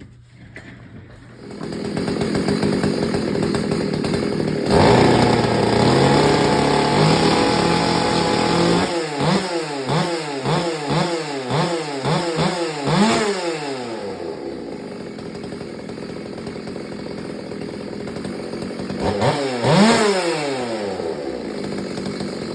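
Two-stroke chainsaw engine running: it comes on about a second and a half in, holds high revs, is blipped up and down about twice a second, settles to a lower speed, and is revved once more near the end. A timing light shows its ignition firing between 25 and 30 degrees before top dead center.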